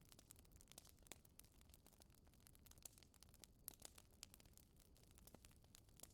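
Wood fire crackling softly in a fireplace: scattered, irregular small pops and snaps over a faint low rumble.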